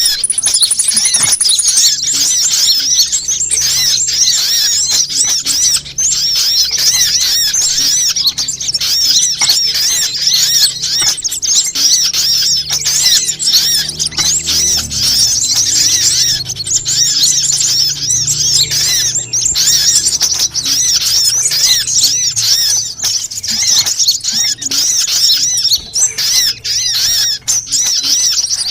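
Sunbirds (kolibri) chirping and twittering, many rapid high-pitched calls overlapping without pause, played as a bird-trapping lure call. A faint low hum runs beneath.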